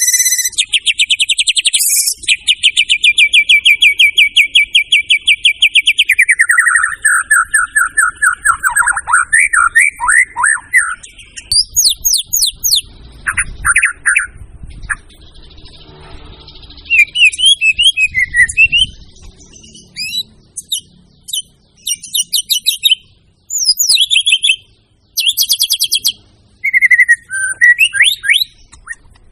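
White-rumped shama (murai batu) singing a loud, varied song. It opens with a long run of fast repeated notes, drops to a lower series of falling notes, then breaks into a string of sharp whistles and chirps.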